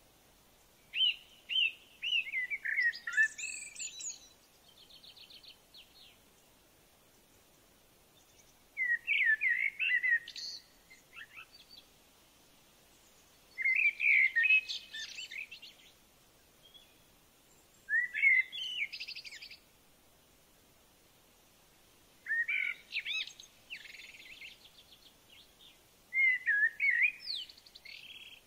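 A songbird singing six short, warbling phrases of quick high notes, one every four seconds or so.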